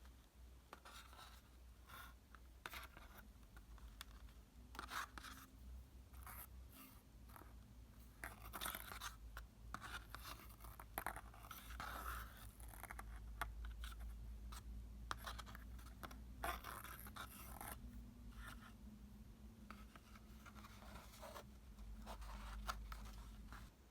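Faint, close-up scraping and scratching with soft crunches in short irregular strokes, like hands working with materials, over a low steady hum.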